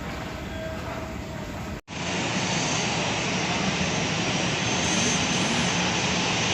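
Passenger jet airliner's engines, a steady rush of noise as it comes in to land, growing slightly louder. It is broken by a sudden cut to silence about two seconds in.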